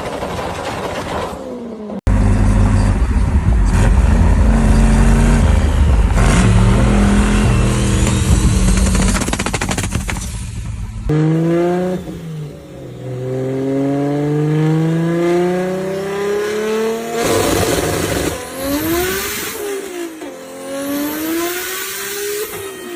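Modified turbocharged race cars with anti-lag systems. First a loud, deep engine run with sharp cracks, then a car accelerating hard through the gears, its pitch climbing and dropping at each upshift. Near the end, cars pass by with the pitch rising and falling.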